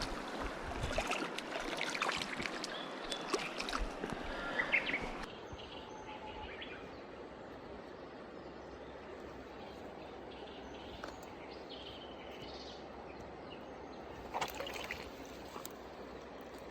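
Mountain stream water running. For about the first five seconds it is louder, with irregular splashes and clicks, then it drops abruptly to a quieter, even rush.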